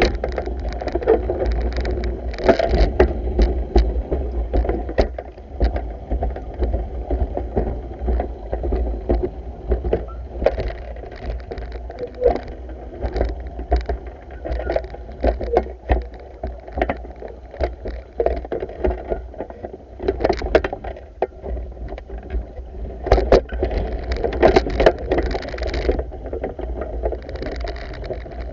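Pool vacuuming by hand: water churning and sloshing, with irregular clicks and knocks from the vacuum head, pole and hose, over a steady low rumble.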